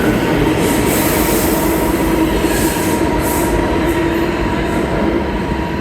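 New York City subway train running in the station: a steady, loud rumble of wheels on rail with a high, steady whine held throughout.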